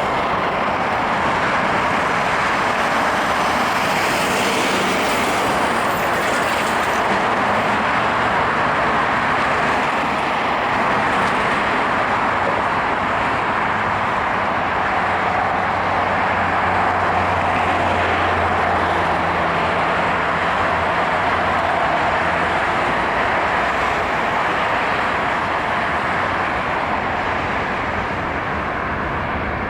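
Boeing 767-200ER jet engines heard during the landing: a loud, steady rushing noise, with a low hum joining in about halfway through.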